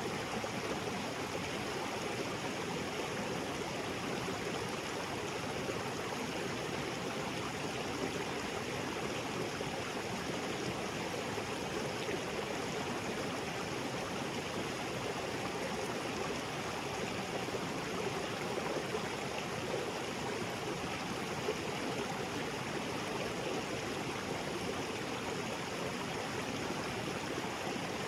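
Small waterfall splashing into a creek, a steady, even rush of falling and flowing water.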